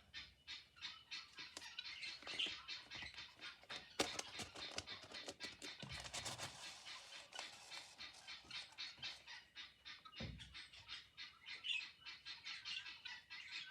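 Faint, rapid scratchy rustling and ticking of paper, fabric and thread being handled and pulled through punched holes while sewing a journal signature into its cover, with a soft bump about ten seconds in.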